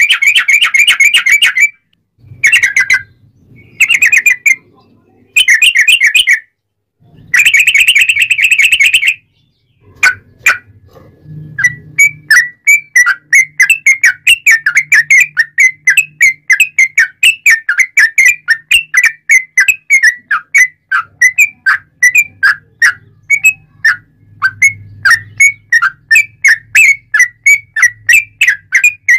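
Yellow-vented bulbul (trucuk) singing loudly. It opens with several short bursts of fast trills with brief pauses between them, then breaks into a long run of sharp chirps, about four a second.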